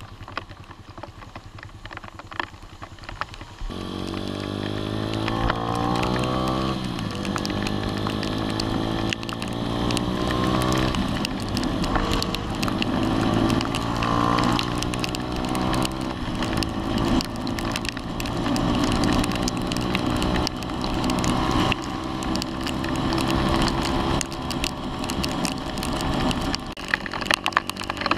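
Sinnis Apache 125's 125cc single-cylinder engine pulling away and revving up through the gears, the pitch climbing and dropping back at each upshift, then running steadily at riding speed. Rain drops crackle and tick on the camera microphone, plainest in the quieter first few seconds.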